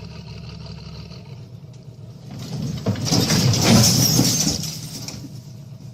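Heavy machine engine running steadily, with a loud rushing noise that swells up about two seconds in, peaks, and dies away over about three seconds.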